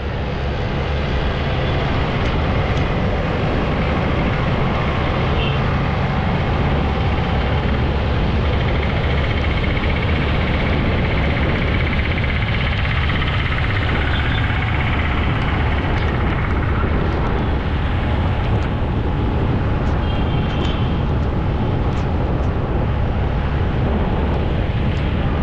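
Steady driving noise of a car on the road: tyre and road rumble with a low engine drone, even throughout.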